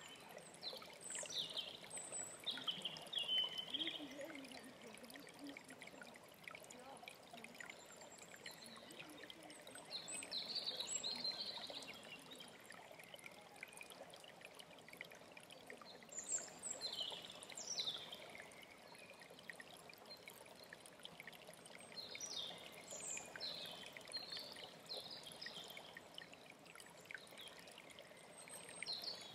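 Small stream trickling and burbling steadily, with a songbird singing short, quick phrases about every five or six seconds over it.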